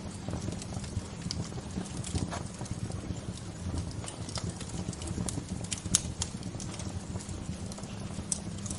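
Wood fire crackling: irregular sharp pops and snaps over a steady low rush, with one louder snap about six seconds in.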